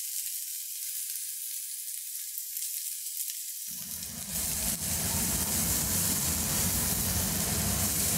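Onions sautéing in oil in a pan, a steady sizzle that gets louder about four seconds in.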